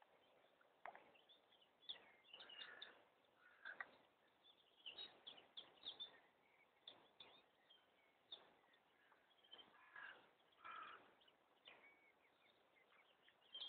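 Faint birds calling and chirping: many short, high calls scattered throughout, with a few fuller calls among them.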